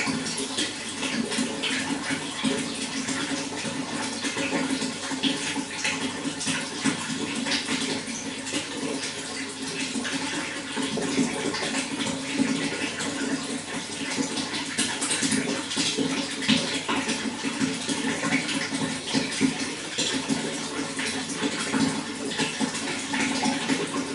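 Running water flowing and splashing steadily, with constant small splashes over a low rushing tone.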